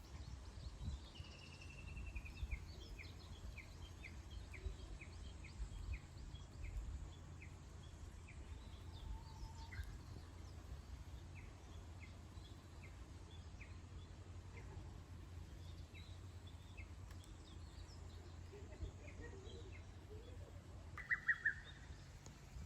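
Wild birds chirping: a short trill about a second in, then a run of evenly spaced high chirps, with scattered calls later and a brief burst of chirps near the end, over a steady low rumble.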